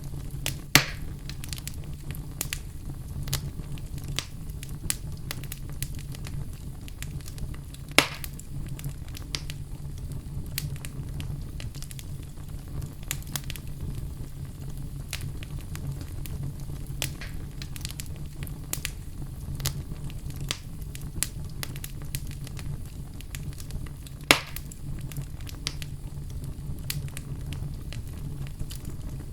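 Wood fire crackling in a fireplace: many small scattered pops and clicks over a steady low rumble, with three louder sharp pops, one about a second in, one about eight seconds in and one near twenty-four seconds.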